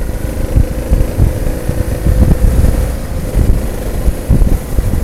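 Motorcycle riding along at a steady pace: the engine holds a steady tone under heavy, uneven wind buffeting on the microphone.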